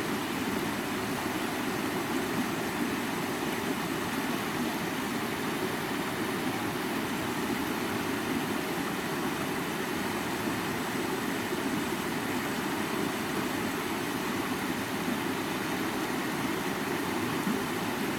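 River water flowing, a steady rushing noise that neither swells nor breaks.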